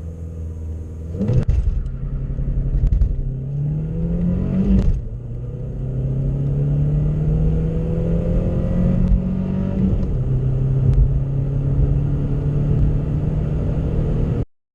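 Volkswagen Golf Mk4 1.4 litre 16-valve inline-four petrol engine accelerating hard from a standstill. The engine pitch climbs steadily in each gear and drops at upshifts about 1.5, 5 and 10 seconds in.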